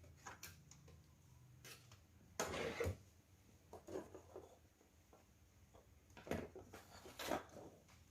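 Small handling noises: scattered clicks and light knocks, with short scraping rustles about two and a half seconds in, around four seconds, and again between six and seven and a half seconds.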